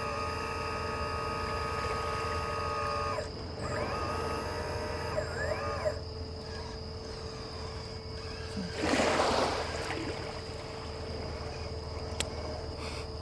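RC hydraulic excavator's pump and motor whining steadily, then rising and falling in pitch as the hydraulics are worked. About nine seconds in there is a short rush of noise.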